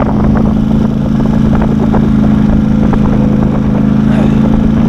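Small off-road vehicle engine running at a steady, unchanging pitch while being ridden, with scattered rattling clicks.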